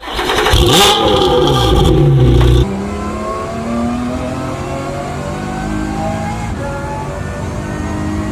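Lotus Emira GT4 race car's 3.5-litre supercharged V6 at speed: a loud pass-by with the pitch sweeping, then an abrupt cut, about two and a half seconds in, to a quieter, steady engine note slowly rising in pitch under acceleration.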